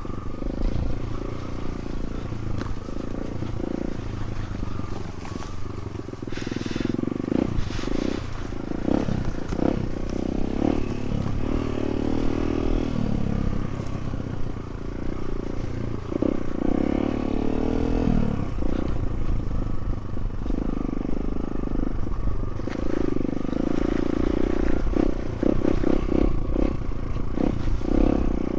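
Trail motorcycle engine running at low, varying revs, with scattered knocks as the bike goes over rough ground.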